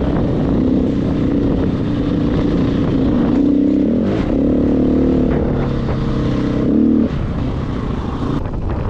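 KTM 500 EXC single-cylinder four-stroke enduro engine running under throttle while riding, its pitch stepping up and down with throttle and gear changes. The engine note drops away about seven seconds in, leaving mostly wind and rolling noise.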